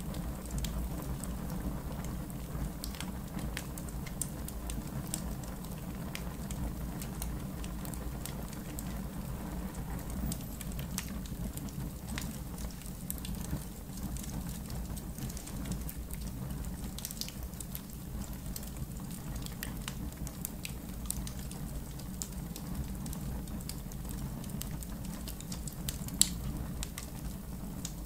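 Wood fire crackling in a fire pit: scattered sharp pops and snaps over a steady low rumble, with one louder pop near the end.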